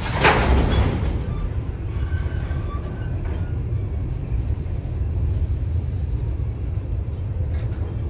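Train rolling by with a steady low rumble, a short burst of hissing about a quarter of a second in, and a few faint, brief squeals soon after.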